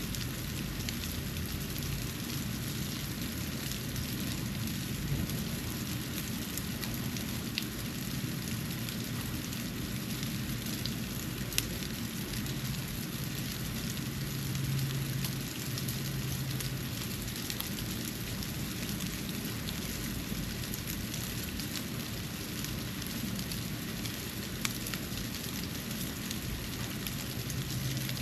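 Snow falling around a porch: a steady soft hiss scattered with faint ticks of flakes landing. A low hum comes and goes underneath, loudest a little past the middle.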